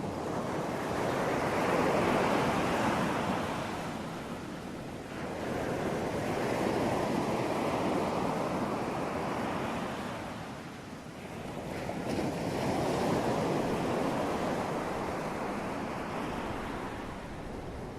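Ocean surf: waves breaking and washing in, the rush swelling and fading three times, roughly every five seconds.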